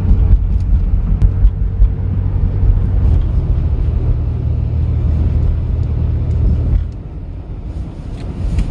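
Car interior road and engine noise while driving: a steady low rumble that quiets down noticeably about seven seconds in.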